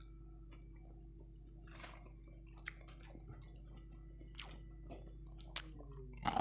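Someone chewing and biting crispy ayam geprek (smashed fried chicken), faint, with scattered short mouth smacks and crunches over a steady low hum.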